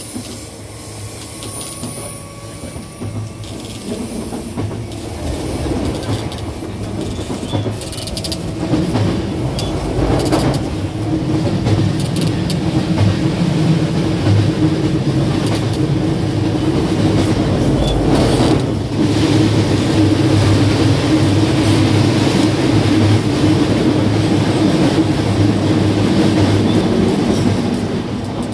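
Running noise of an E235-1000 series electric train heard from inside the passenger car: a steady rumble and hum of wheels and traction motors on the rails. It grows louder over the first ten seconds or so as the train picks up speed, then holds steady, with a few sharp clicks along the way.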